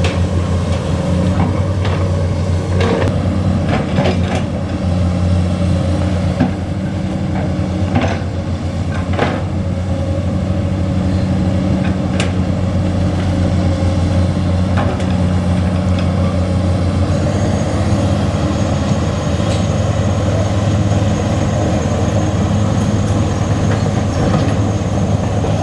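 Heavy diesel engine running steadily at a constant speed, with a few sharp knocks or clanks in the first half.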